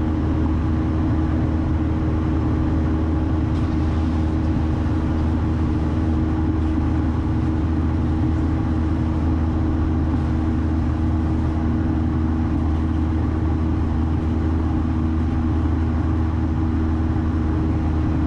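The engine and propeller of a 1972 Cessna 172, its four-cylinder Lycoming running at a steady drone in flight, heard from inside the cabin.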